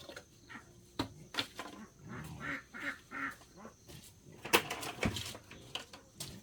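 Ducks quacking in a short run of calls about halfway through, with several sharp knocks or taps around them, the loudest a little after the calls.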